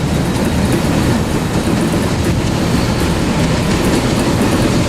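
Freight train running past at close range: a steady, loud rumble of locomotive and wheels on the rails.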